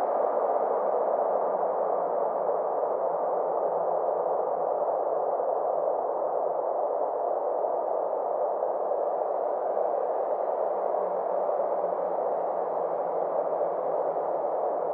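Synthesized space-ambience drone: a steady band of filtered noise sitting in the mid range, its brightness slowly sweeping down and back up, over a faint low hum.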